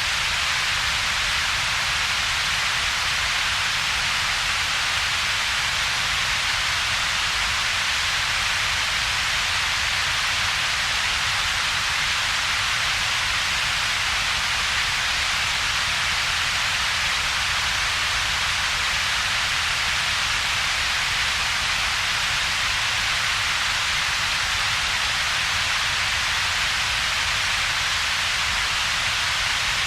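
Computer-generated double-peaked noise: a steady hiss with a fainter low rumble beneath it, shaped so that its power gathers in two bands with a gap between them.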